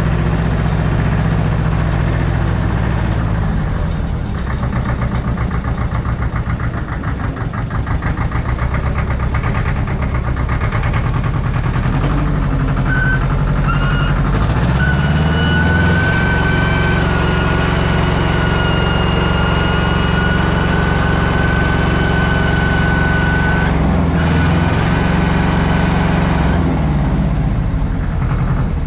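Allis-Chalmers 5020 tractor engine running, its speed shifting down and up a few times. A high steady whine joins in for about ten seconds in the middle.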